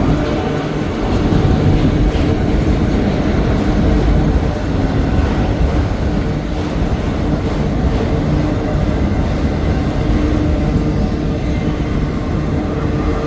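Slow CSX manifest freight train rolling past: a steady low rumble with a steady low drone over it.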